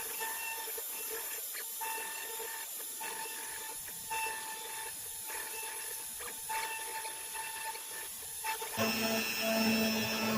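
Router spindle of a Next Wave Piranha FX CNC machine running, carving wood with a V-bit: a steady high whine that breaks off briefly about once a second as the machine moves. About nine seconds in the sound changes to a lower, louder hum.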